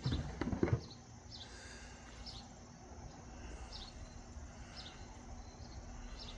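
Quiet outdoor background with a small bird's short, high chirp repeating about once a second. A few soft thumps in the first second.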